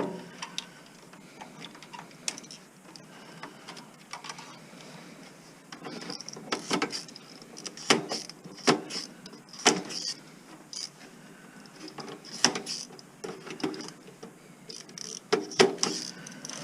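Irregular clicks, knocks and clanks of hand tools and metal parts being handled while dismantling a stereo system's chassis and transformers for scrap.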